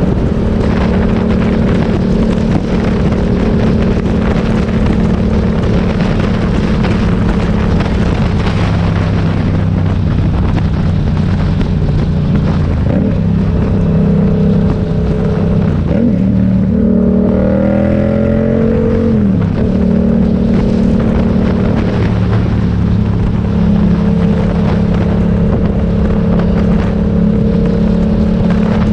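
Motorcycle engine running steadily under way over road and wind noise; its pitch bends briefly about two-thirds of the way through, as the throttle changes.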